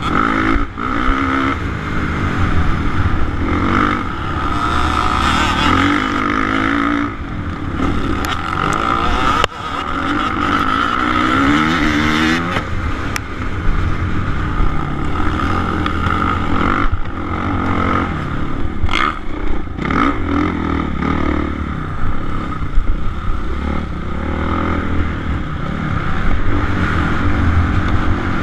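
Suzuki RM-Z450 single-cylinder four-stroke motocross bike engine racing, its revs rising and falling over and over as the throttle is opened and shut.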